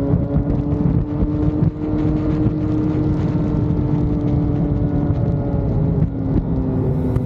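Vehicle engine running at a steady cruise, heard from on board with wind and road rumble; its pitch holds steady and eases off slightly about five seconds in.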